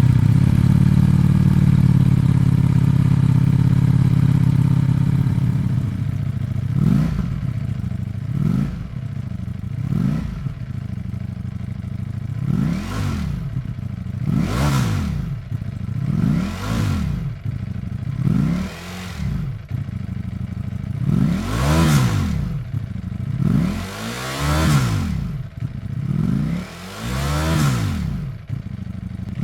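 2021 Ducati V4 motorcycle engine running through a CS Racing aftermarket exhaust: a steady idle for about six seconds, then a series of about ten throttle blips, each revving up and falling back to idle.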